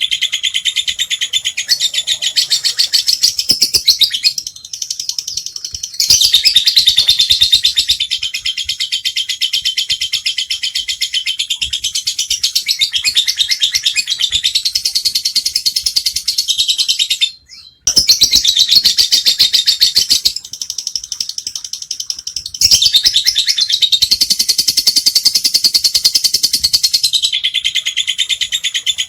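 Lovebird ngekek: long, unbroken bouts of rapid, shrill, rattling chatter, briefly pausing twice.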